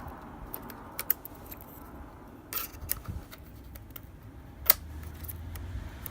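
Scattered sharp clicks and taps of an iMac's RAM cover being pressed into place by hand. The loudest snap comes about three-quarters of the way through.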